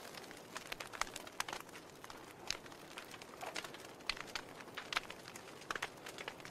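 Wood fire crackling: irregular sharp pops and snaps from burning logs over a soft steady hiss.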